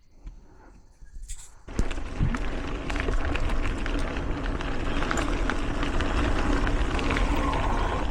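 Mountain bike rolling along a dirt singletrack trail: steady tyre and trail noise dense with small clicks and rattles, starting about two seconds in after a quieter moment.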